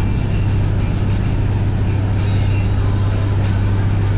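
Motorboat engine running steadily while under way, a loud even low hum.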